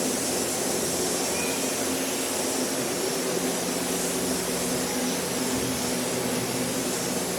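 Car wash equipment running steadily: an even hiss over a constant motor hum.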